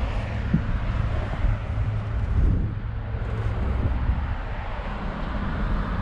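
Wind buffeting the microphone: a steady low rumble with a faint outdoor hiss.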